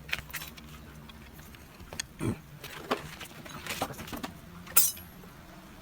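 Scattered metallic clinks and knocks of hand tools and engine parts being handled, over a low steady hum; the sharpest clink comes near the end.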